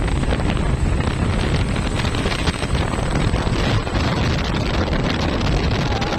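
Wind buffeting the microphone over the steady rumble of road traffic, which here is trucks passing in convoy.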